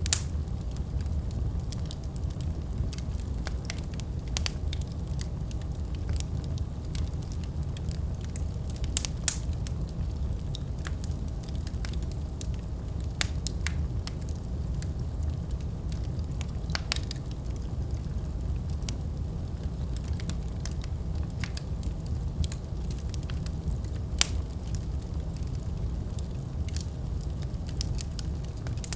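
Wood fire in a fireplace burning steadily, with a low rumble of flames and irregular crackles and pops, a few louder snaps among them.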